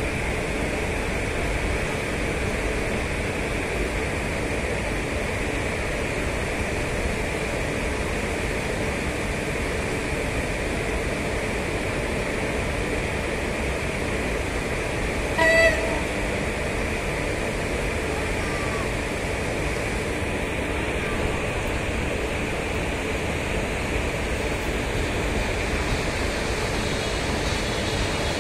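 Steady noise of an approaching electric-locomotive-hauled passenger train, with one short horn toot about halfway through.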